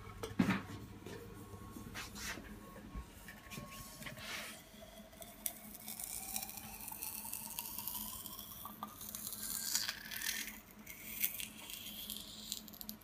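Molten aluminium poured into a mould, a faint tone rising steadily in pitch over several seconds as it fills, among scrapes and clinks of metal tools.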